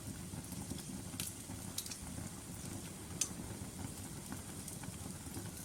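Logs burning in a fireplace: a steady low rumble of flames with scattered sharp crackles and pops, the sharpest one about three seconds in.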